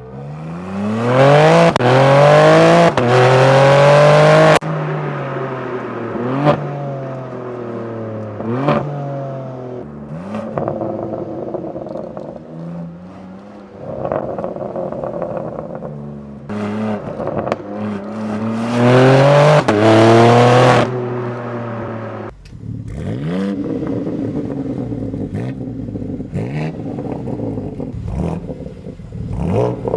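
BMW M3 G80's twin-turbo straight-six revving through a Deikin exhaust with its particulate filters removed and the factory catalytic converters kept. Two long hard revs climb and cut off sharply, with short blips between them. The last third is quieter, with a run of quick rising revs.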